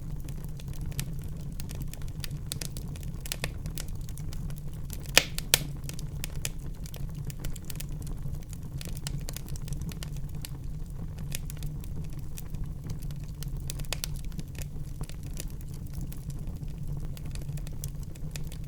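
Wood fire burning in a fireplace: a steady low rumble of flames under scattered crackles, with two loud sharp pops about five seconds in.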